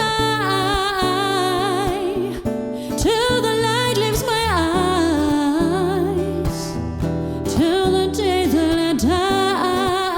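A female vocalist singing long, held notes with vibrato over a guitar accompaniment.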